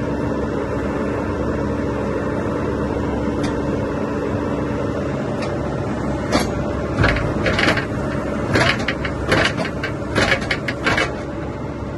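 Bobcat E50 excavator's Kubota diesel engine running steadily. From about halfway through, a string of sharp knocks and clanks comes in irregular clusters, louder than the engine.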